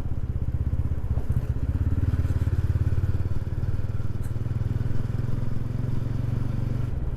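TVS Ronin's single-cylinder 225 cc engine running steadily under way, heard from a helmet-mounted camera.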